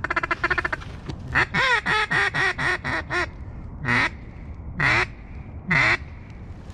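Mallard hen-style quacking. A fast, chattering run of short notes opens it, then about eight quacks fall in pitch one after another, then three single, drawn-out quacks come about a second apart.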